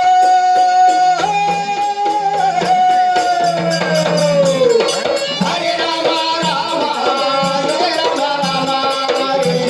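Marathi kalgi shahiri folk song: a male singer holds one long note that glides down about halfway through, over a steady beat of hand drum and jingling percussion.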